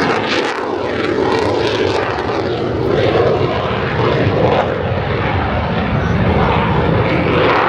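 F-16 fighter jet flying by, its single jet engine making a loud, steady noise.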